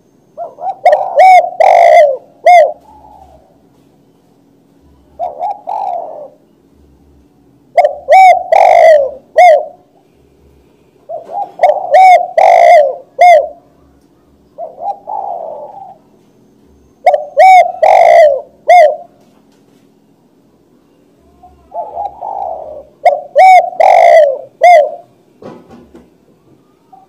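Spotted dove cooing: a phrase of several low coos repeated every few seconds, about seven phrases here, a couple of them softer. The loudest coos are harsh and distorted from overloading the recording.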